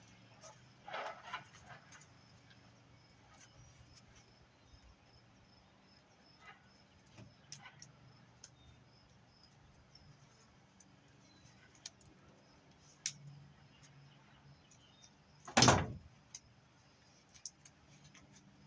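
Handling of BX armoured cable while copper wire is pulled out of it: scattered small metallic clicks and scrapes, a louder rattle about a second in and one short, loud knock about three seconds before the end, over a faint steady hum.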